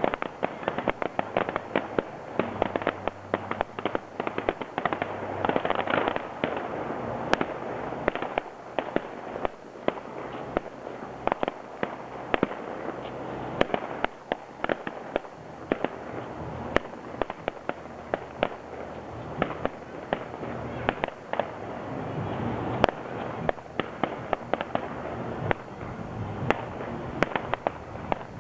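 Aerial fireworks display: shells and effects bursting one after another, many sharp bangs and crackles several a second with no let-up.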